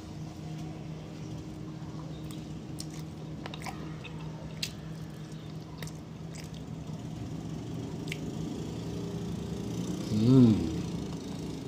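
Someone eating a crispy flour-battered fried chicken wing: bites and chewing with scattered short crunches, over a steady low hum. Near the end comes a brief hummed "mmm".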